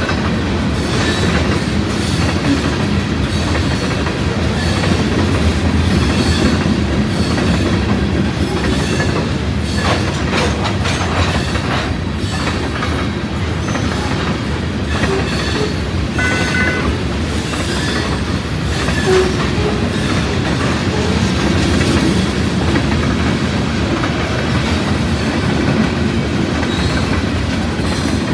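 Covered hopper cars of a freight grain train rolling past: a loud, steady rumble of steel wheels on rail with repeated clicks over the rail joints. A few brief high-pitched wheel squeals come around the middle.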